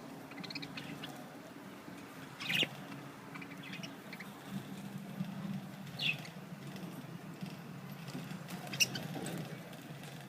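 Budgerigars giving short, scattered chirps while pecking at a seed cake, with small clicks and pattering; two louder clicks come about two and a half seconds in and near the end.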